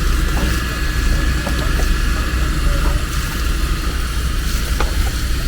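Fire hose spraying water on the smouldering remains of a barn fire, a steady rushing hiss over a low engine-like rumble, likely a fire engine's pump running.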